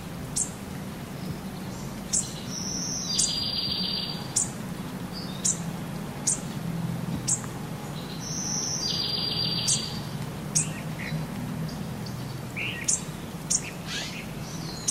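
Songbirds chirping: short high chirps about once a second, with two longer trilled phrases, over a low steady hum.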